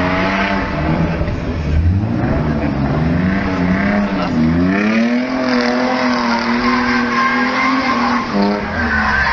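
Mercedes 190E's 3.6-litre M104 straight-six engine revving hard. The note climbs over the first few seconds, holds at high revs, drops briefly near the end and climbs again.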